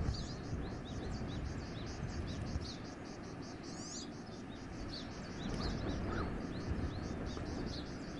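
Wind blowing through a forest, a low rushing noise that swells in gusts, under a dense run of small birds' quick, high, repeated chirps.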